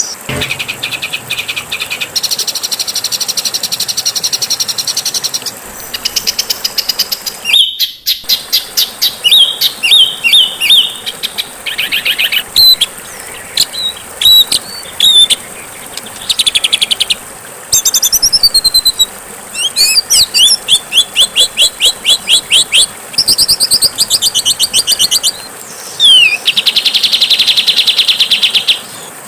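Songbird singing used as masteran, training material for caged birds: a run of harsh, rapid trills, chirps and whistles from different birds, each phrase changing abruptly to the next, with short breaks between them.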